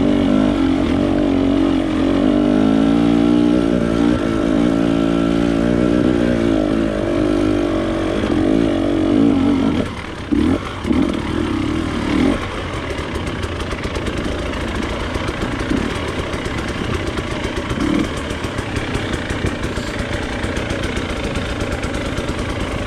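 Off-road motorcycle engine running under changing throttle, its pitch rising and falling for about ten seconds. It then drops back, gives a few short bursts of throttle, and settles to a quieter, steadier note.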